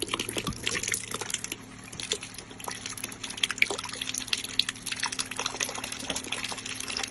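Pumped river water running out of a hose into a container, splashing and dripping, with a low steady hum underneath. It cuts off suddenly at the end.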